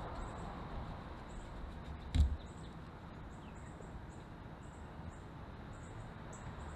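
Small bird giving short, high-pitched chirps over and over, every fraction of a second, in an outdoor background. A single sharp knock about two seconds in is the loudest sound.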